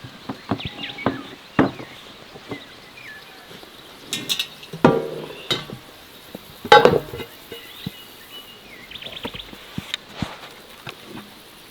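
Irregular knocks and clinks of food preparation, like utensils, dishes and chopping. The loudest knocks come about five and seven seconds in.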